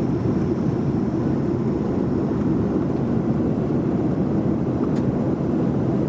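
Steady cabin noise of a Boeing 737-400 in flight: the low rush of air and engines, with a faint click near the end.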